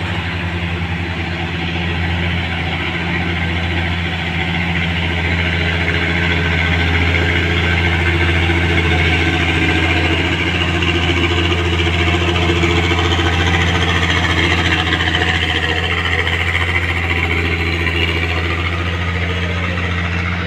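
Diesel trucks loaded with oil palm fruit pulling uphill under load. Their engines run in a steady low drone that grows a little louder toward the middle.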